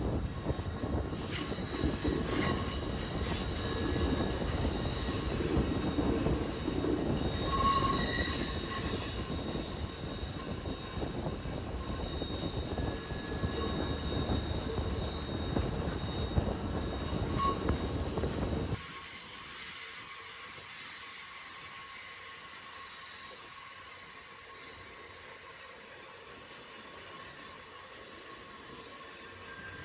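Rocky Mountaineer passenger train in motion: loud rumble of the cars with high-pitched squealing from the wheels on the rails. About two-thirds of the way through, the sound drops abruptly to a much quieter steady rumble.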